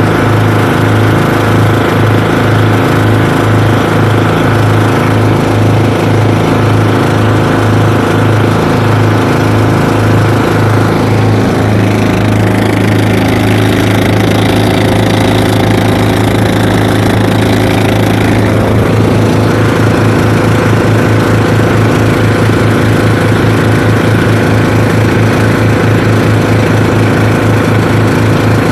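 The twin engines of a bangka outrigger boat running steadily under way. The engine note shifts slightly about twelve seconds in and again near nineteen seconds.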